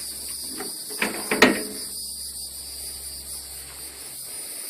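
Crickets trilling steadily in the background, with two short knocks about a second in.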